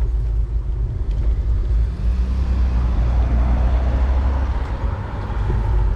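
Wind rumbling on the microphone of a moving bicycle, over road traffic noise; a car's tyre and engine noise swells and fades in the middle.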